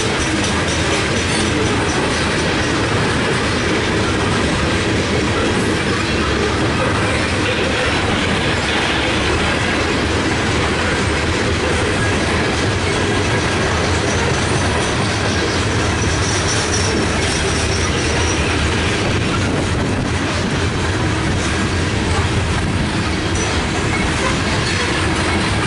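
Loaded coal hopper cars of a freight train rolling past close by: a steady, loud rumble and clatter of steel wheels on the rails.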